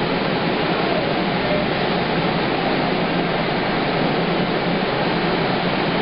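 Metro train running between stations, heard from inside the car: a steady rushing rumble of wheels on rails.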